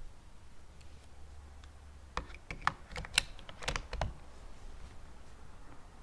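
Action of a Tikka T1x .22 LR rifle being handled: a quick run of light metallic clicks and clacks lasting about two seconds in the middle.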